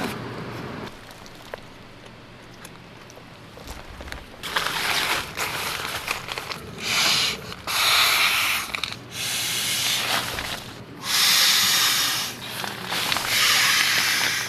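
Air mattress being blown up by mouth: a run of about five long breaths blown into the valve, each a second or two long, beginning about four seconds in.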